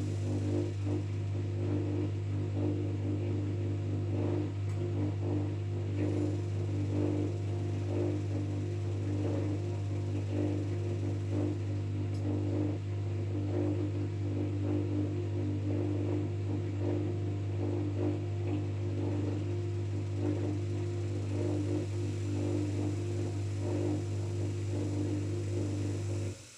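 LG 5 kg washing machine running with a steady motor hum and no change in pace.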